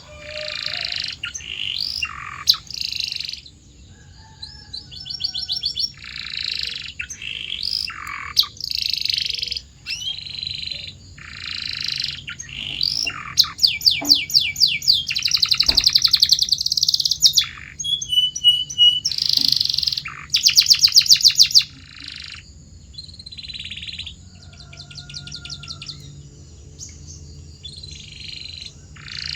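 Domestic canary singing a long, varied song in short phrases with brief gaps: buzzy rolls, fast rattling trills and a few clear whistled notes midway.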